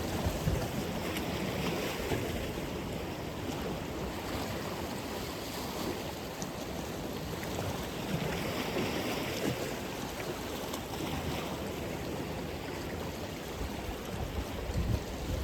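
Ocean surf: waves washing onto the shore in a steady rush, with small swells as each wave breaks.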